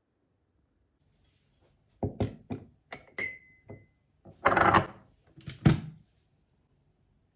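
Dishes and glassware handled and set down: a string of knocks and clinks starting about two seconds in, one short ringing clink, a brief scraping rustle, and a last knock.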